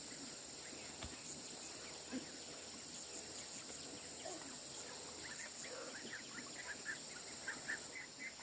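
Faint birds chirping: a quick run of short chirps through the second half, over a steady high hiss.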